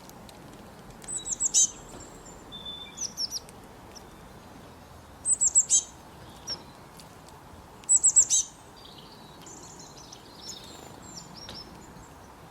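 Songbird singing: a short phrase of quick, high, falling notes, repeated three times about three seconds apart, with softer chirps between, over a faint steady hiss.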